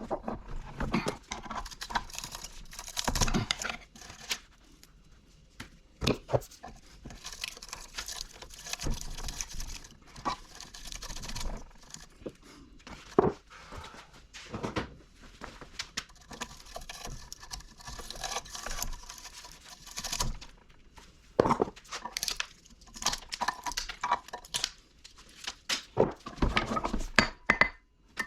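Hand work on scrap electric motor parts: irregular clinks, knocks and scraping or tearing noises as pieces are handled, with short pauses between.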